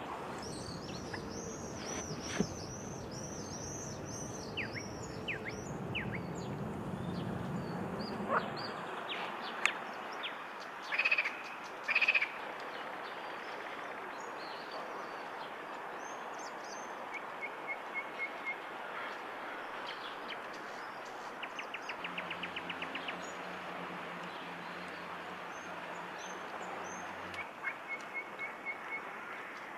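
Wild birds calling and singing over a steady outdoor background: high chirping phrases in the first few seconds, two louder short calls about eleven and twelve seconds in, and quick trills of short notes later on. A low hum runs underneath for about five seconds past the middle.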